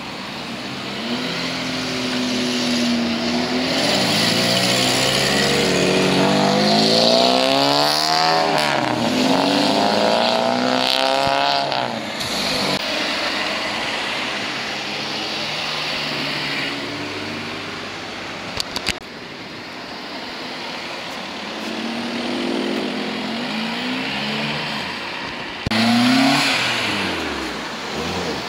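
Modified cars pulling away and accelerating, engines revving with the pitch climbing and dropping through the gears. There are a few sharp cracks about two-thirds of the way through, and a sudden loud rev near the end.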